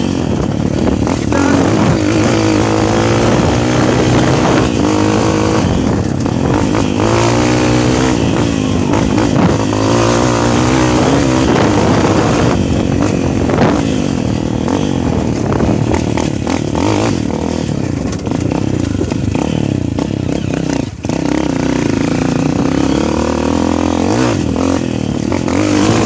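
Motocross dirt bike engine being ridden, its note rising and falling as the rider works the throttle, with a brief drop in revs near the end.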